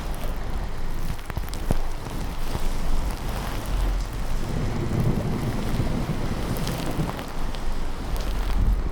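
Steady rain with low thunder rumbling, swelling about halfway through and again near the end, and a few scattered light clicks.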